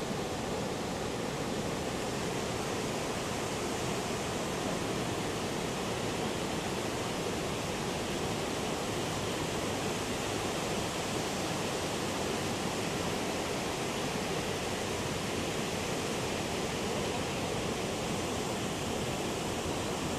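Heavy ocean surf breaking as a continuous, even roar, with no single wave crash standing out.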